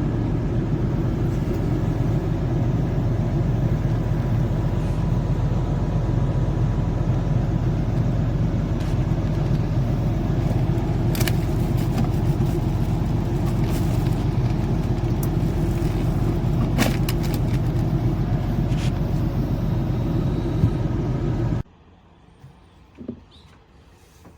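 Car driving: a steady rumble of road and engine noise with a few faint clicks. It cuts off abruptly near the end, leaving a much quieter background.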